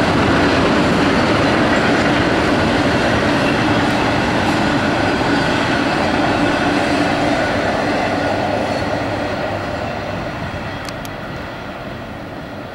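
Double-stack intermodal freight cars rolling past: a steady rumble and rattle of steel wheels on rail, fading over the last few seconds as the train draws away.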